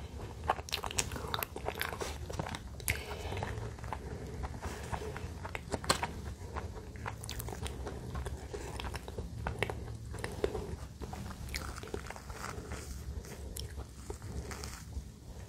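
Close-miked eating sounds: soft cream bread being chewed with wet mouth clicks, and a cream-filled bun being torn apart by hand and pressed into whipped cream. Irregular sharp clicks and smacks run throughout.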